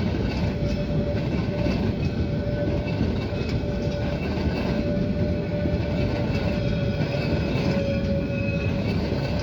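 Narrow-gauge train of the Mecklenburg Bäderbahn Molli running: a steady loud rumble with a thin tone held over it.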